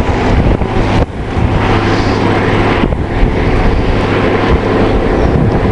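Wind buffeting the microphone outdoors, a loud rumbling roar that shifts abruptly about a second in and again near the three-second mark.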